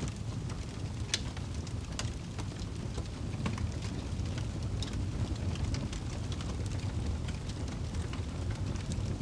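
Fire burning in a fireplace: a steady low rumble with irregular sharp crackles and pops, a few a second, the sharpest about one and two seconds in.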